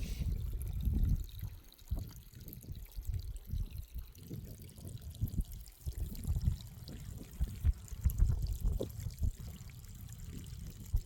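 Water pouring and trickling, with uneven low surges of sound.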